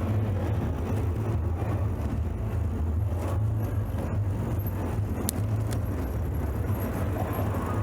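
Steady low rumble of wind and tyre noise from a bicycle riding along a road, with a couple of brief ticks partway through.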